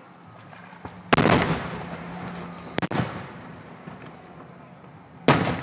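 Aerial fireworks going off: a loud bang about a second in that fades out over a second, a quick double crack near the middle, and another bang near the end. Crickets chirp steadily underneath.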